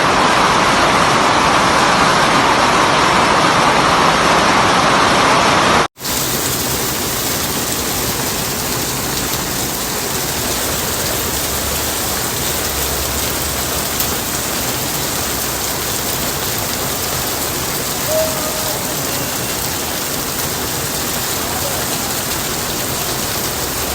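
Heavy rain falling steadily as an even hiss. About six seconds in the sound drops out for an instant at a cut, then carries on a little quieter and more evenly spread.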